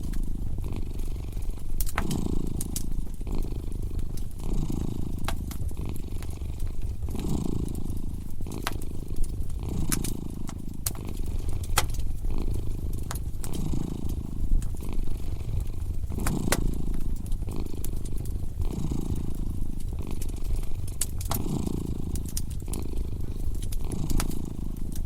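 A cat purring close up, in slow rising and falling swells about every second and a half, with a wood fire crackling and popping over it in sharp irregular snaps.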